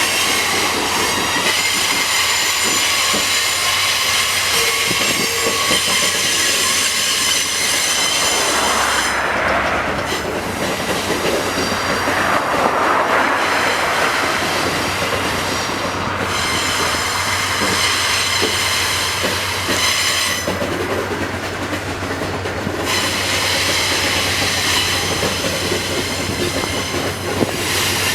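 Freight train wagons rolling through a tight curve. The wheels squeal in high steady tones that drop out and return several times, over a continuous rumble and clatter of wheels on rail.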